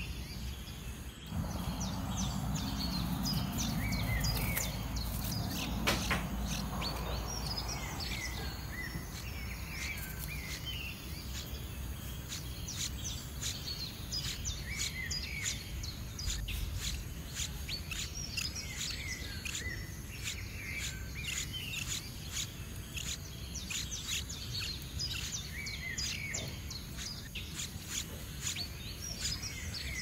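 Small birds chirping, with many short, high chirps repeating at an uneven pace throughout. A stretch of muffled low noise sits under them for the first several seconds.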